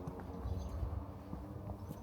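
Outdoor street ambience with a low rumble and a scatter of soft knocks and taps.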